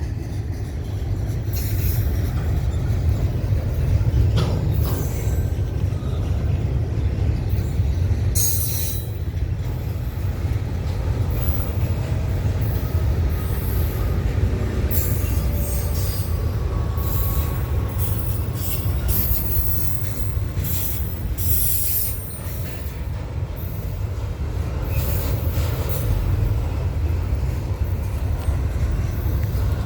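Freight train cars rolling past on the main line: a steady low rumble of wheels on rail, with scattered clanks and a faint wheel squeal now and then.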